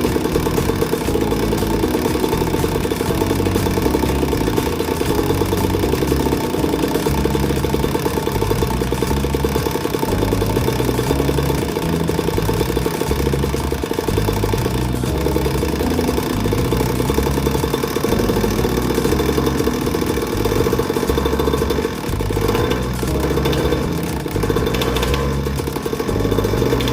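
Pocket bike's small engine running and being revved, driving its centrifugal clutch.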